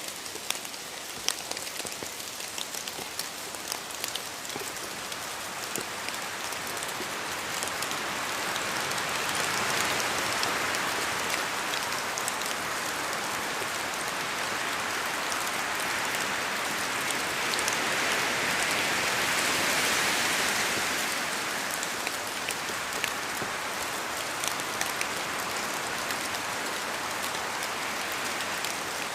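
Steady rain falling on a surface, with scattered drops ticking through the hiss. The downpour swells somewhat louder through the middle and eases again near the end.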